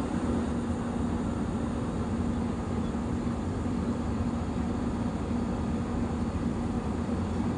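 Steady drone of an airliner in flight heard inside the cabin: engine and airflow noise with a low steady hum.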